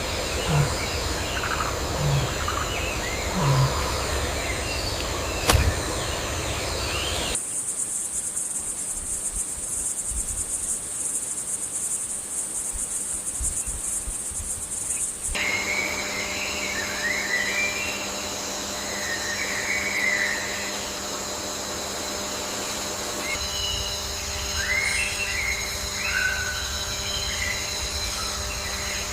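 Wild outdoor ambience of insects trilling steadily and birds chirping, changing abruptly twice. The middle stretch is a high, steady insect buzz, and the last part has insect trills under scattered bird chirps.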